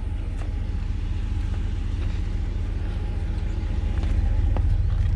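A vehicle engine running steadily, a low rumble that gets a little louder about four seconds in.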